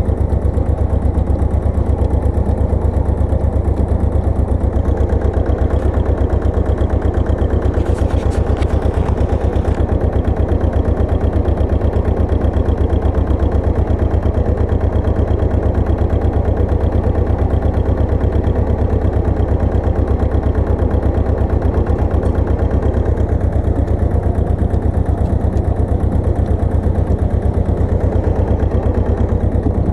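Pasquali 980 EX two-wheel tractor's engine running steadily with a rapid, even pulse, driving a rotovator.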